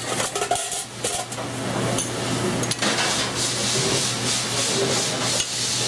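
Pasta being stirred into a sauce sizzling in a metal pan, with a few knocks of a utensil against the pan in the first few seconds.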